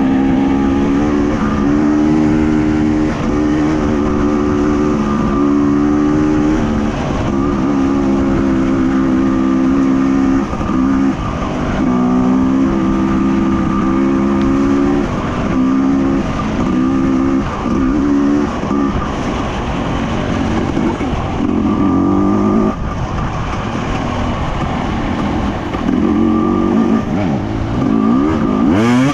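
Off-road enduro motorcycle engine being ridden, revving up and dropping back again and again as the throttle opens and closes.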